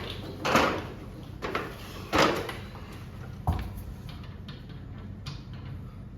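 Intermittent handling noises from work on garage door spring hardware: a handful of short scrapes and clatters, with a sharper knock about three and a half seconds in.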